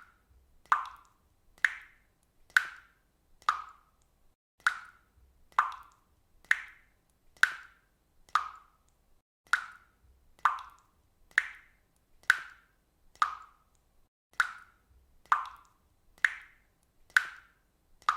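Water dripping steadily, one drop about every second, each a short plop with a quick fading tail.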